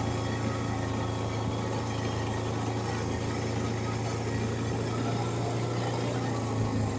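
All-terrain vehicle (ATV) engine running at a steady, even speed with a constant low hum.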